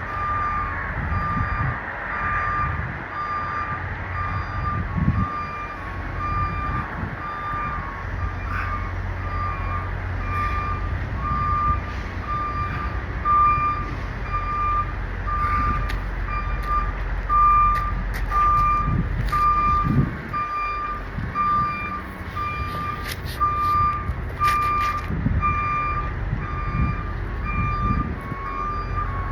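A truck's reversing alarm beeping over and over at an even pace, over the low rumble of an idling diesel engine.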